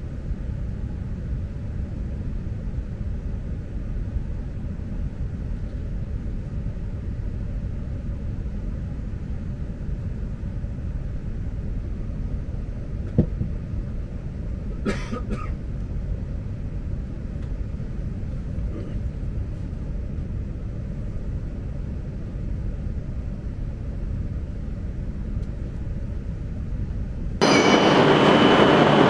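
Low, steady rumble inside the car of an E6 series Komachi Shinkansen pulling into a station, with a faint click about halfway. Near the end it cuts to a louder, steady hum with a thin high whine from the Shinkansen trains standing at the platform.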